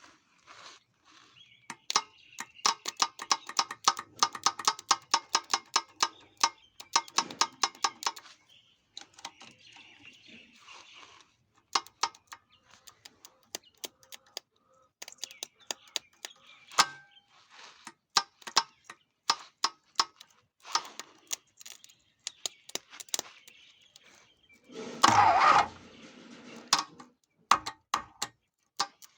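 Clicks and metal knocks of hand work on a gearbox being fitted to an engine, with a fast, regular run of clicks early on and a louder scraping rush about 25 seconds in.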